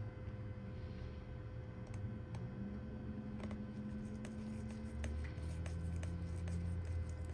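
Scattered light clicks and taps of small parts being handled during a smartphone repair, several a second in the second half, over a steady low hum.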